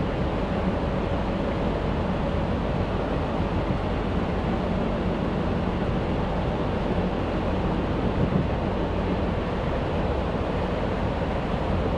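Steady running noise of a moving electric passenger train heard from inside the carriage: a constant low rumble of wheels on rails with a faint steady hum.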